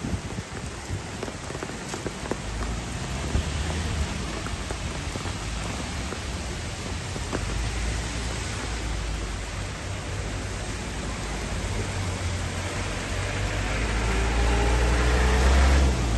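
Heavy rain falling and pattering on surfaces, with scattered drop ticks early on. A deep rumble builds over the last few seconds and cuts off suddenly near the end.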